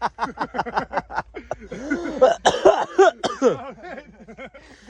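Men's voices without clear words, with coughing: a fast run of short vocal bursts, then several drawn-out voiced sounds, trailing off near the end.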